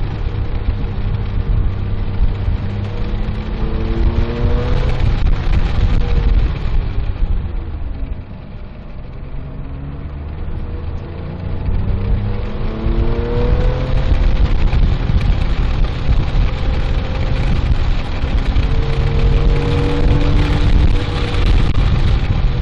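Porsche 997.1 GT3's 3.6-litre flat-six, heard from inside the cabin on track, over steady road noise. The engine note climbs with the revs as the car accelerates, eases off with a drop in loudness about eight seconds in as it slows for a corner, then climbs again twice on the way back up to speed.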